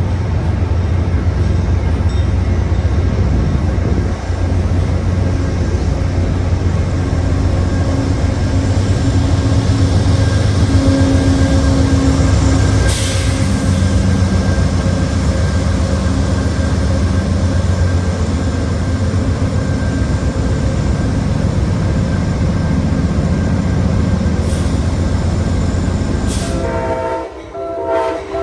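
Diesel passenger train locomotive running with a steady low engine drone, with a couple of sharp short noises along the way. Near the end a train horn sounds in short blasts.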